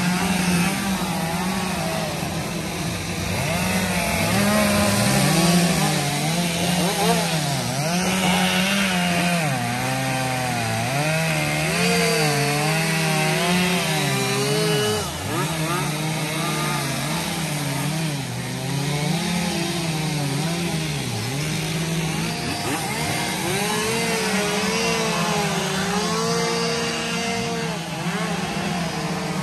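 Chainsaws running continuously, their engine pitch rising and falling as they cut.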